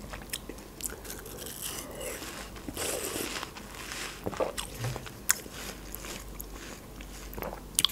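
Close-miked chewing of a mouthful of watermelon: wet, crunchy mouth sounds with scattered small clicks.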